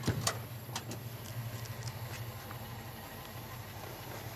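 Steady low hum of a car engine idling, with a few small clicks in the first second.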